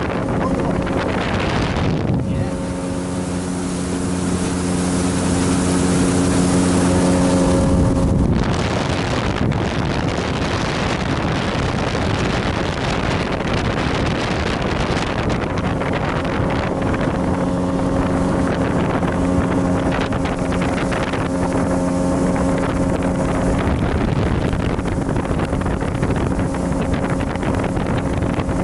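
A boat's engine drones steadily over loud wind buffeting the microphone and rushing water, the engine tone sinking under the noise for a while midway.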